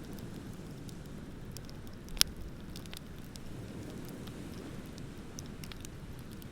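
Wood bonfire crackling, with scattered small pops and one sharp, loud pop about two seconds in, over a steady low rush.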